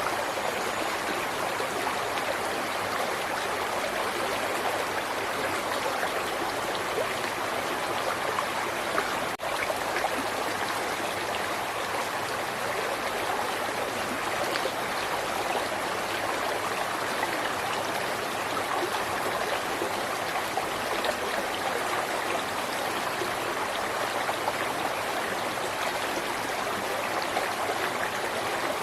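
River water flowing in a steady, even rush, with a momentary dropout about nine seconds in.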